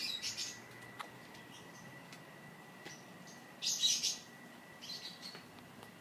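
Small birds chirping in short bursts, loudest about two-thirds of the way through, over a faint steady high-pitched whine.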